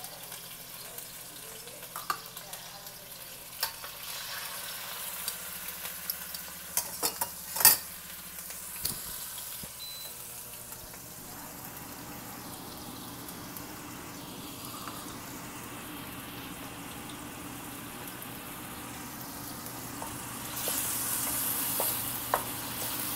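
Diced chicken searing in oil in a stainless steel pan, sizzling steadily over the steady noise of a range hood blower. A few clinks and knocks of dishes and utensils come in the first eight seconds, the loudest about eight seconds in, and the sizzle grows louder near the end.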